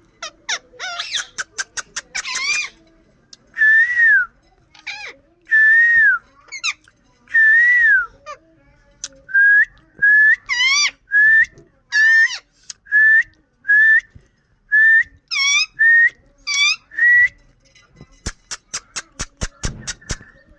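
Indian ringneck parakeet whistling: a string of clear whistled notes, each rising and falling, many about a second apart, with quick runs of sharp rapid calls near the start and near the end.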